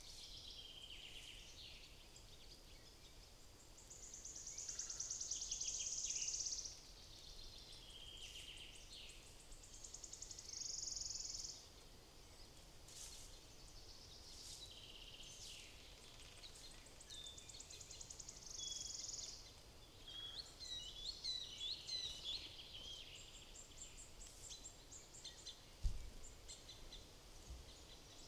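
Small woodland songbirds calling around a feeder: fast, buzzy high trills and sharp chirps from several birds, over faint steady outdoor noise. There is one short low thump near the end.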